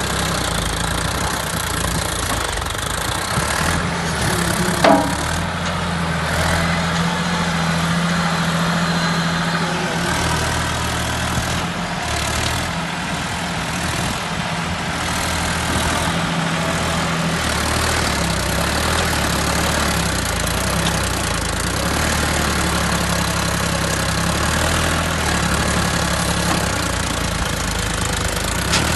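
Massey Ferguson tractor's diesel engine running steadily at a low, even speed, with a brief sharp sound about five seconds in.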